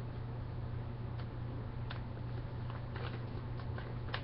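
Faint rustles and small crinkles of printer paper being folded and creased by hand, a few soft ticks spread out, over a steady low electrical hum.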